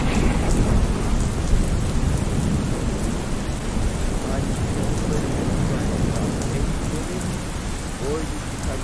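Heavy rain falling on pavement, with a deep steady rumble underneath. It grows slightly quieter near the end.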